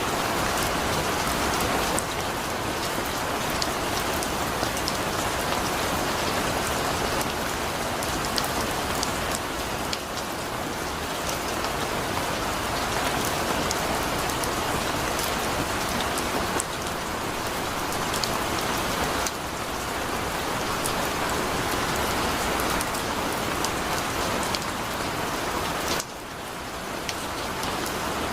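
Heavy rain falling steadily, a dense hiss dotted with the ticks of individual drops. The level steps down abruptly a few times, most clearly near the end.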